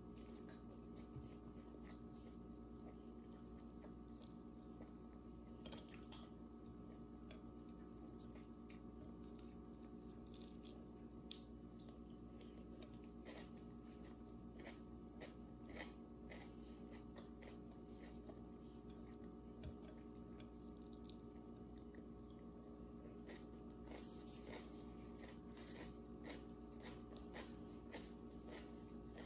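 Faint chewing and biting of a person eating by hand, with many short crunchy clicks and mouth sounds scattered through, over a steady low hum.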